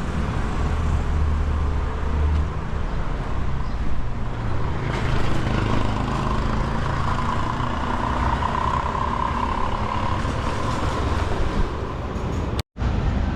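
Road traffic: motor vehicle engines running and passing, with a steady rumble that is heaviest in the first couple of seconds. The sound cuts out abruptly for an instant near the end.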